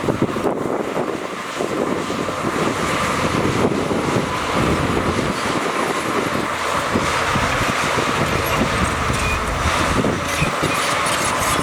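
Heavy diesel earthmoving machinery working: an engine running steadily under load, with constant rattling and clatter mixed in.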